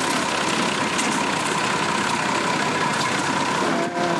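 An engine idling steadily, with a thin, steady high tone running through it.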